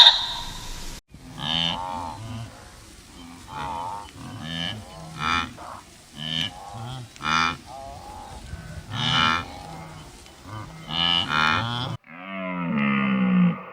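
Animal calls repeated about once a second, each short and pitched, then a longer drawn-out animal call near the end.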